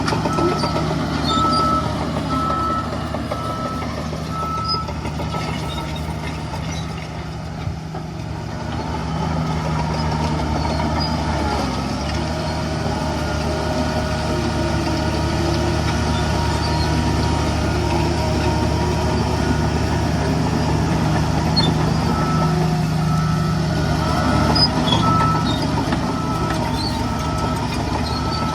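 Heavy diesel construction machinery running steadily, with a vehicle's reversing alarm beeping in the first few seconds and again near the end.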